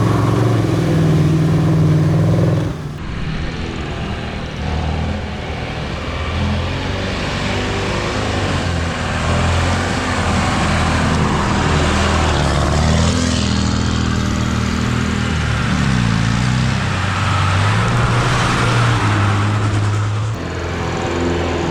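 Heavy off-road racing truck engines working hard, their pitch rising and falling as the throttle changes, with the sound changing abruptly about three seconds in and again near the end.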